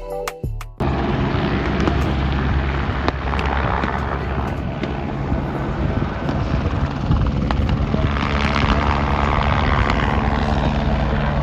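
Helicopter in flight, its rotor and engine making a steady loud noise that begins abruptly about a second in, after a short tail of music.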